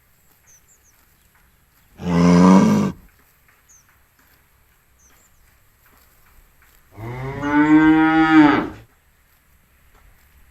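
Cattle mooing twice: a short moo about two seconds in, then a longer, louder moo that rises and falls in pitch about seven seconds in.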